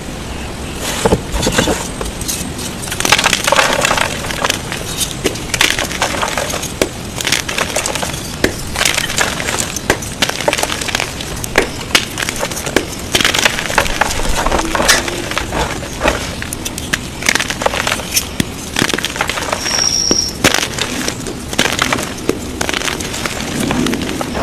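Blocks of gym chalk being crushed: a dense, continuous run of crunchy crackles and sharp snaps as the chalk breaks up.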